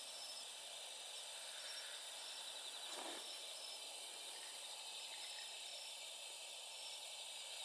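Night insects, crickets among them, chirping steadily in a dense high-pitched trill. There is one short soft crackle about three seconds in.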